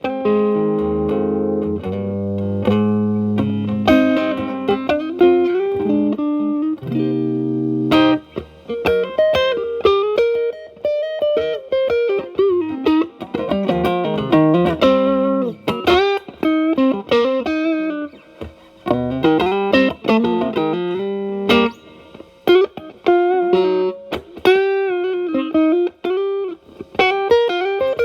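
Electric guitar (Telecaster) played through an E.W.S. Brute Drive distortion pedal with its gain around 10 to 11, into a Marshall Valvestate amp's clean channel. It plays sustained chords for the first several seconds, then single-note lead lines with string bends.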